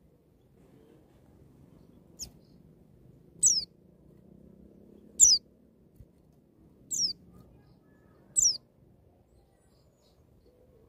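White-eye (pleci) giving five sharp, very high whistled notes, each sliding quickly downward, spaced a second or two apart; the first is fainter. This is the piercing 'nembak' shooting call of a wild-style (ngalas) white-eye.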